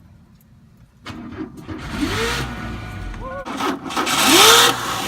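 1996 Chevy Cavalier engine cranking and catching after a long no-start, then revved in short blips that rise and fall in pitch, several times.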